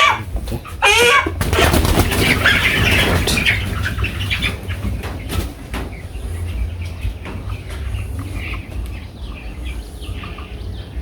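A large broiler cockerel squawking and then flapping its wings hard for about three seconds as it struggles while being held and weighed, settling down after that.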